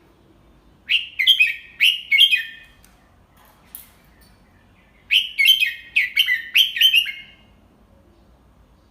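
Red-whiskered bulbul singing two short phrases of quick, chirpy notes, about four seconds apart.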